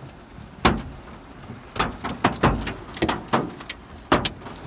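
Large hailstones striking a car's roof and body, heard from inside the car as about eight sharp, irregular knocks over a steady wash of noise.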